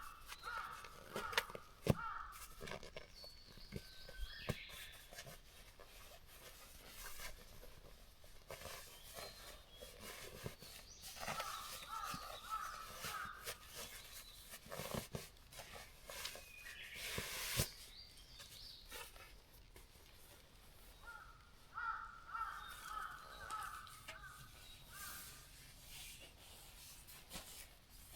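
Crows cawing in three separate bouts of repeated calls, with a few sharp knocks in between.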